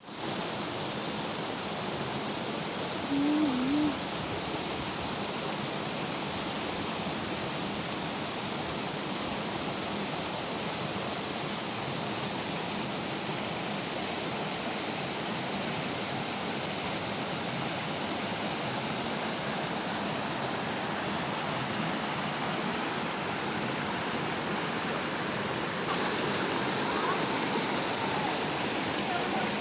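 Waterfall's rushing water: a steady, even rush. A short wavering tone is heard about three seconds in, and the rush gets a little louder near the end.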